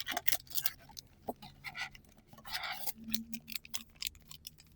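Booster packs of trading cards being handled: foil wrappers crinkling, with scattered light clicks and taps.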